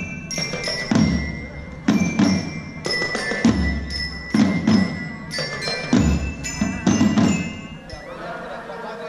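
Percussion music: deep drum beats with ringing, bell-like metal strikes over them, easing off near the end.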